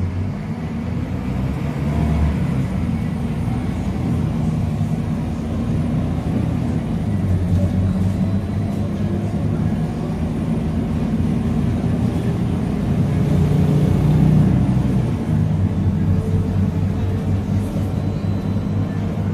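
Diesel engine and drivetrain of a Scania K310UA articulated city bus running under way, a steady low drone that grows louder for a few seconds about two-thirds of the way through.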